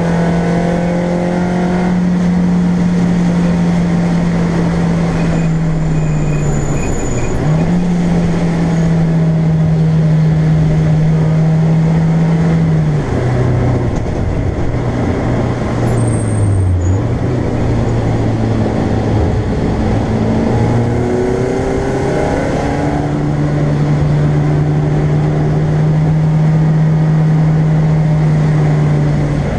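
BMW Compact race car's engine heard from inside the stripped cabin, holding steady revs for several seconds at a time. Its note drops in pitch a quarter of the way in and again near halfway, sags lowest just past halfway, then climbs back to a steady note for the last quarter.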